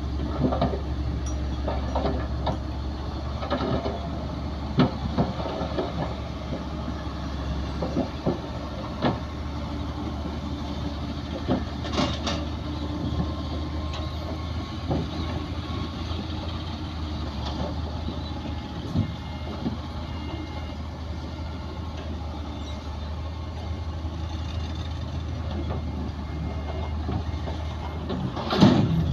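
Heavy diesel earthmoving machinery running with a steady low engine drone, with scattered metallic clanks and knocks and one louder bang near the end.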